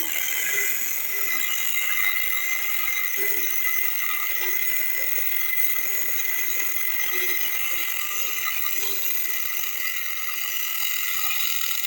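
Homemade angle grinder driven by a 775 DC motor, cutting through a thick iron bar: a steady high whine over the grinding hiss of the disc on metal.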